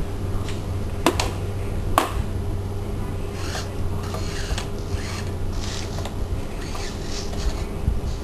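Hands working on a foam model with small tools: two sharp clicks about a second apart, then a series of short scratchy rubbing and scraping noises, over a steady low hum.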